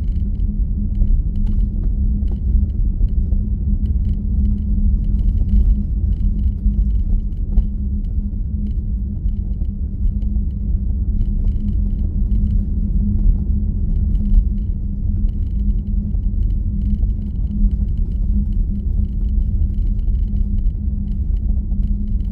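Steady low rumble of a car driving, heard from inside the cabin: engine and tyre road noise with a constant low hum.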